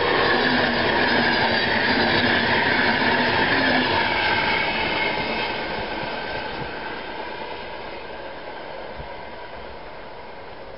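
Passenger train hauled by an electric locomotive passing at speed: a loud rush of wheels on rail with a few whining tones that sag slightly in pitch. From about halfway it fades steadily as the train draws away.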